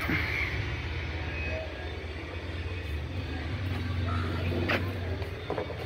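Toyota Noah's 2.0-litre four-cylinder engine idling with a steady low hum, which drops away about five seconds in, with a couple of short clicks near the end.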